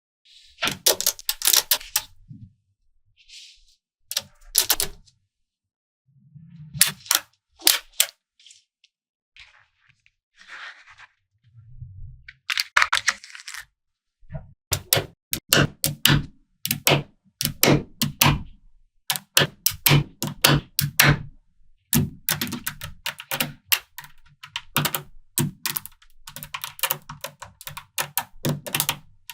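Small magnetic balls clicking and snapping together as they are pieced into a model, in quick runs of sharp clicks broken by short pauses, coming thicker and faster from about halfway on.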